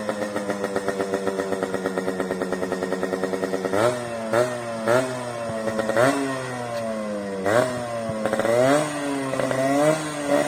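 Yamaha RX100's two-stroke single-cylinder engine idling with a quick, even exhaust beat, then revved in a series of short throttle blips from about four seconds in, each rising in pitch and falling back.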